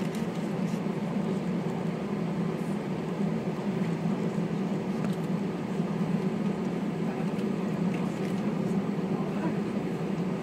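Steady cabin noise inside an Airbus A320 taxiing: an even hum of the engines and air conditioning with a low drone, and a faint intermittent rattle.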